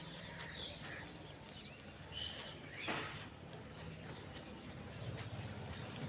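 Birds chirping in short calls, with pigeons cooing low underneath, and a brief crackle about three seconds in.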